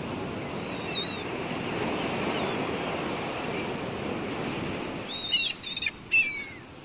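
A steady rushing outdoor noise, then several short bird calls near the end, some sliding down in pitch.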